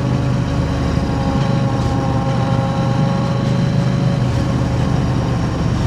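KTM 890 Adventure R's parallel-twin engine running at steady revs through an aftermarket Arrow Race-Tech slip-on exhaust, a steady, even exhaust note.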